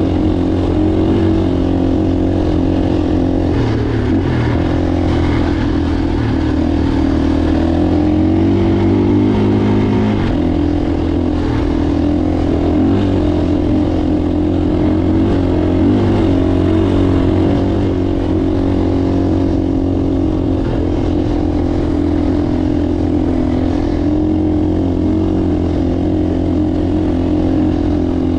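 Motocross bike engine running at fairly steady revs for the whole stretch, its pitch wavering up and down a little in the first half.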